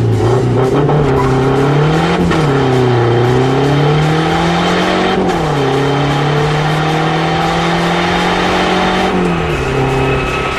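Tuned Fiat Uno turbo diesel, fitted with a bigger turbo, accelerating hard. The engine note climbs and drops sharply about two seconds in, climbs again and drops near five seconds, holds high and nearly steady, then drops again near nine seconds, like gear changes under full load.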